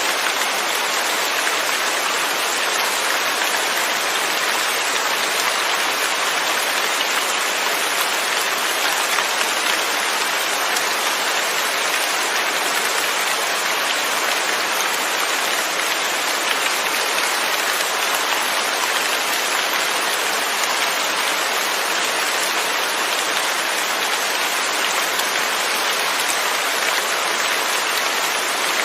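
Steady rain falling, an even hiss of drops on a surface with no thunder, holding at one level throughout.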